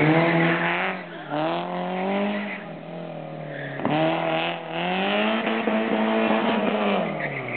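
Peugeot 306 S16 Rallye's four-cylinder engine being driven hard: the revs climb, drop at gear changes or lifts, and climb again several times, then fall away near the end.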